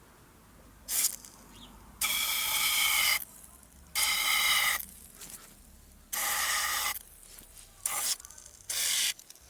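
Aerosol can of foaming engine cleaner spraying in about six short hissing bursts, most about a second long.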